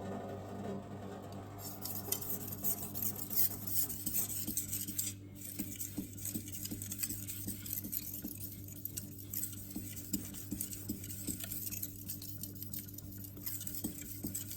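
Steel knife blade being stroked rapidly back and forth on a wet Shapton Pro 5000-grit whetstone, a quick run of scraping rasps with a short pause about five seconds in. A steady low hum sits underneath.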